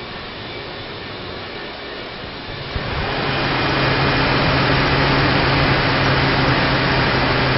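GMC Envoy XL's 4.2-litre inline-six running steadily. About three seconds in it rises to a higher, louder steady speed and holds there.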